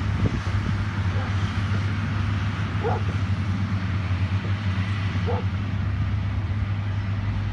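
Heavy diesel construction machinery running with a steady low drone. Two brief calls break through, about three and five seconds in.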